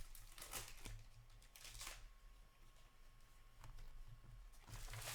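Faint rustling and sliding of trading cards being flipped through by hand: a few soft, brief swipes, then a longer one near the end.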